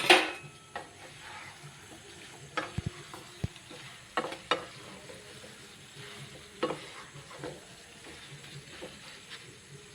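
A spatula scraping and knocking against the pan every second or so as chicken and potatoes are stirred, over a faint sizzle, after a brief loud clatter at the start.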